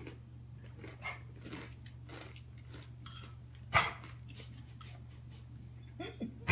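Dog coughing: a run of short, breathy hacks, with one loud cough about four seconds in.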